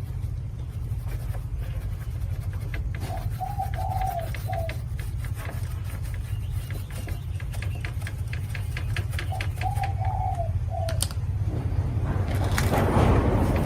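A dove cooing twice, each a short phrase of a few notes, over a steady low hum. Near the end a louder rushing noise builds up.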